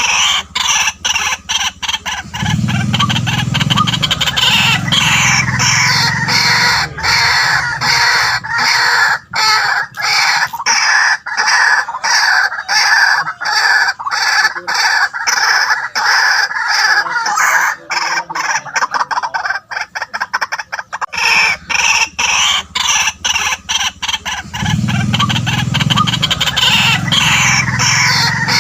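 White-breasted waterhen calling: a loud, continuous run of rapidly repeated croaking notes. A deeper note sounds under it for a few seconds near the start and again near the end.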